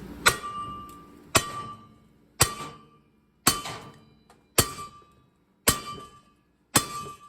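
Seven hammer blows on steel, about one a second, each ringing briefly, driving at the seized inner race of a drive shaft carrier bearing that stays frozen on the shaft.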